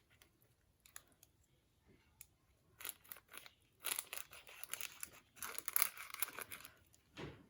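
Paper being handled: a few faint taps, then dry rustling and crinkling in irregular bursts from about three seconds in.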